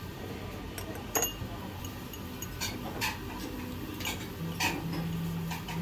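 Tableware clinking during a meal: a sharp ringing clink about a second in, then several lighter taps and knocks of utensils on dishes.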